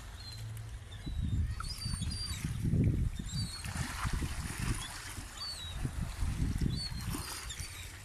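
Seaside ambience: water washing and lapping at the shore under an uneven low rumble, with many short, high bird calls scattered throughout.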